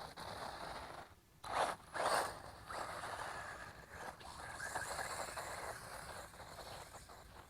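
Wltoys 124017 brushless 1:12 RC buggy driving, its tyres and drivetrain making a rough scraping rush over the ground. Two short loud rushes come about a second and a half in, followed by a steadier hiss that fades out.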